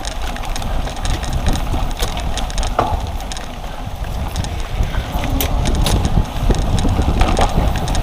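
A cyclocross bike ridden over rough ground, heard from a camera on the bike or rider: wind buffeting the microphone under a scatter of rattles and clicks.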